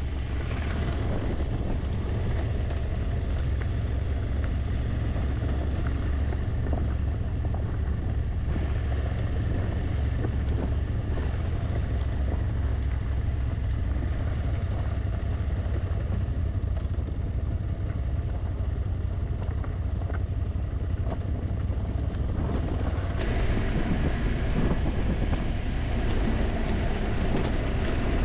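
Motorcycle running at road speed with wind buffeting the camera microphone: a steady low rumble under a rushing hiss. About 23 seconds in, the hiss abruptly gets brighter.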